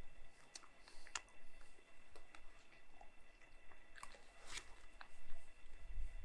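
A person biting and chewing a piece of old cheddar cheese close to the microphone, with a few sharp clicks scattered through.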